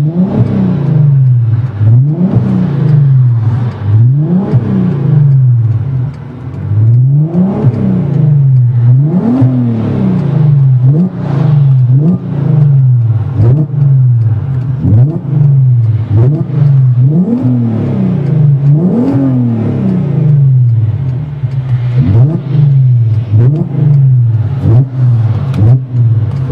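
Volkswagen Golf R32's 3.2-litre VR6 engine revved repeatedly while the car stands still, heard inside the closed cabin through a custom 3-inch exhaust with a hotdog resonator and 4-inch tips. The engine note climbs and drops back in short blips every second or two, a dozen or so in all, settling back toward idle between them.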